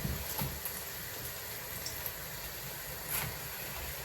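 Cottage-cheese pancakes frying in hot oil in a pan, a steady sizzle, with a few light knocks near the start.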